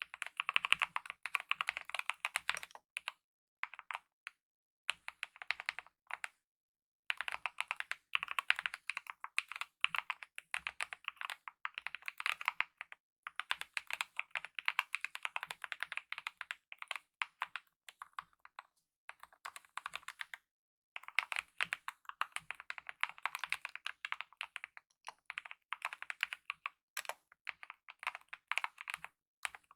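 Typing on a mechanical keyboard with lubed optical red linear switches and DSA-profile keycaps: rapid runs of key clacks broken by brief pauses of a second or less.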